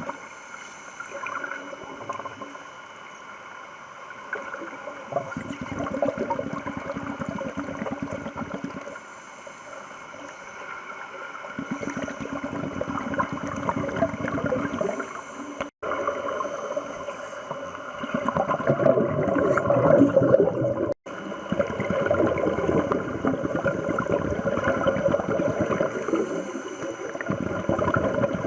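Scuba divers breathing underwater: bursts of exhaled bubbles from the regulators rush and gurgle every few seconds over a steady hiss. The sound cuts out briefly twice.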